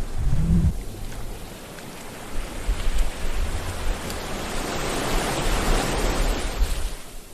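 Sea waves surging and washing onto a shore: the wash swells in the middle and falls away near the end, with a low rumble underneath.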